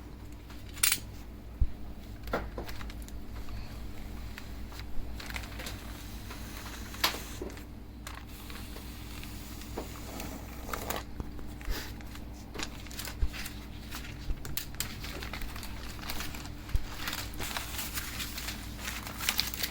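Hydro dip water transfer film crinkling and rustling as it is handled and cut, with scattered sharp clicks and snips throughout.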